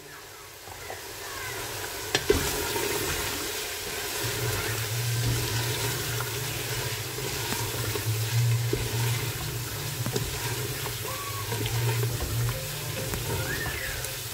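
Chicken, onion and tomato masala frying with fresh spices in an aluminium pressure-cooker pot, sizzling steadily as a wooden spoon stirs and scrapes it, with small clicks of the spoon on the pot. A low steady hum joins about four seconds in.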